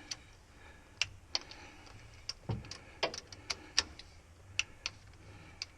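Scattered sharp metallic clicks and taps of hand tools and metal parts being handled, about a dozen at uneven spacing, with one duller knock about two and a half seconds in.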